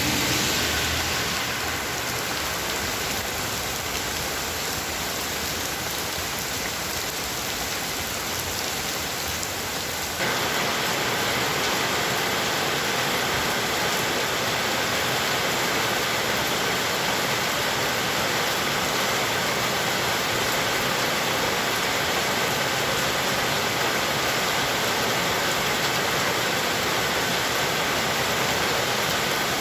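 Heavy rain falling steadily, an even hiss of water. About ten seconds in it abruptly becomes louder and stays so.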